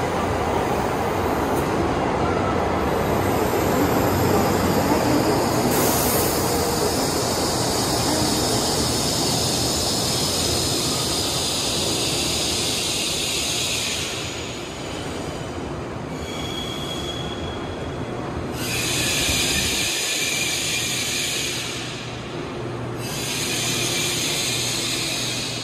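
N700S shinkansen train arriving along the platform and slowing to a stop, running with a steady rumble. Its brakes and wheels squeal and hiss in stretches as it slows.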